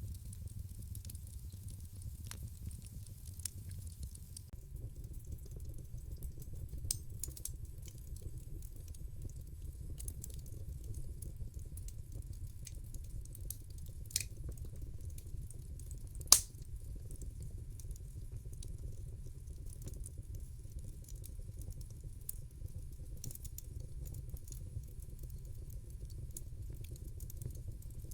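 Wood fire crackling in a fireplace: a steady low rumble of the burning logs under scattered sharp pops and snaps, the loudest about halfway through.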